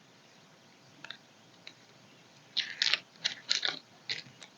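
Small crisp plastic clicks and rattles from handling diamond painting supplies: resin drills, tray and pen. A couple of faint clicks, then a quick cluster of them a little past halfway.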